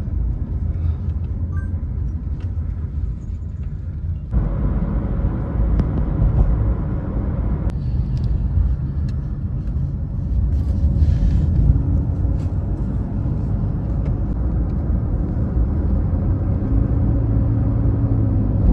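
Taxi driving, heard from inside the cabin: steady low road and engine rumble that steps up louder about four seconds in.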